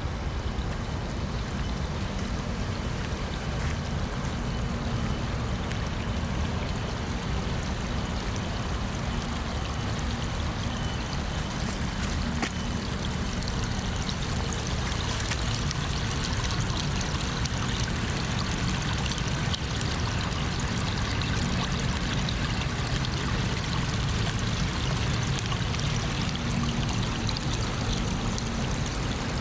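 Steady rush of running water, continuing evenly.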